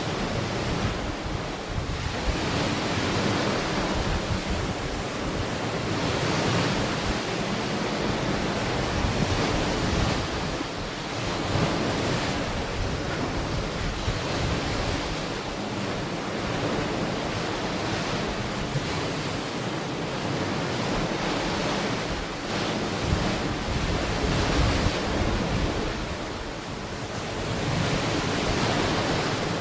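Ocean waves washing onto a beach, a continuous rush of surf that swells and eases every few seconds, with wind buffeting the microphone.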